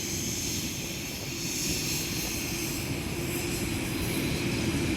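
Air India Boeing 787's jet engines: a steady low rumble with a hiss above it, growing gradually louder.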